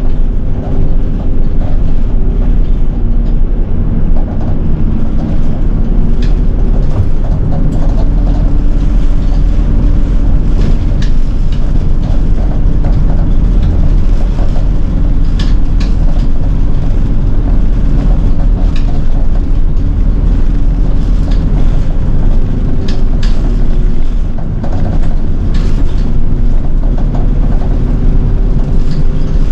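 City bus running in traffic, heard from on board: a steady low rumble of engine and road, a drivetrain whine whose pitch drifts slightly with speed, and occasional small rattles.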